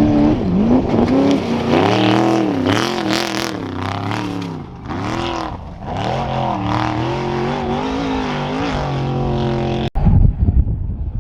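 Trophy truck's race engine at full throttle, its pitch climbing and dropping repeatedly as the driver accelerates, lifts and shifts through an off-road qualifying run. Near the end the sound cuts abruptly to a rough low rumble.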